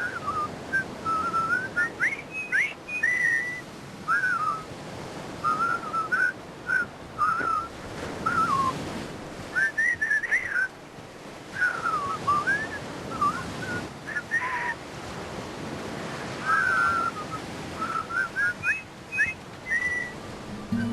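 Short whistled chirps and quick up-and-down glides, coming in irregular bursts of several notes, over a steady hiss of outdoor background.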